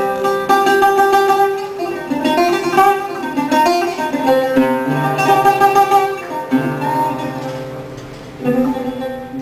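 Instrumental music on a plucked string instrument like a guitar, a series of ringing notes and chords, with a last chord struck near the end and left to fade.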